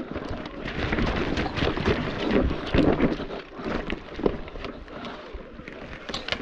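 Mountain bike rattling and knocking as it rolls over rocks and roots, with wind buffeting the microphone.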